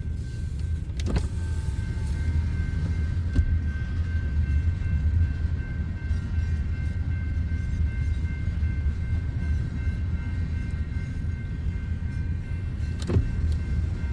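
Loaded coal train rolling slowly: a steady low rumble with a thin, steady high-pitched squeal over it, and a few sharp clicks.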